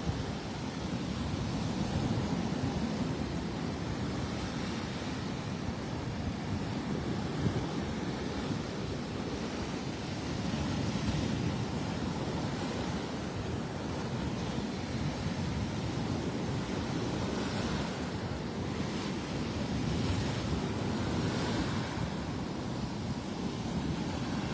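Rough Gulf of Mexico surf breaking and washing up on a sand beach in a steady rushing wash that swells and eases every few seconds, with wind buffeting the microphone.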